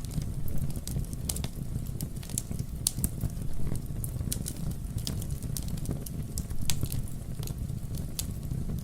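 Wood fire burning, with frequent irregular sharp crackles and pops over a steady low rumble of flame.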